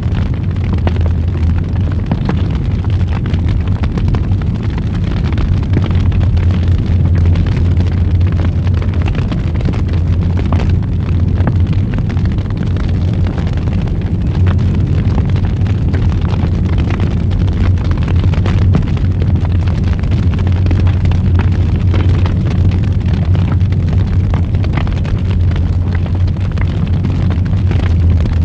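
Wood fire burning in a fireplace: a steady low roar of flames with frequent sharp crackles and pops throughout.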